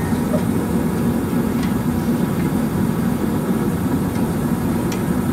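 Car engine running steadily, a low even drone.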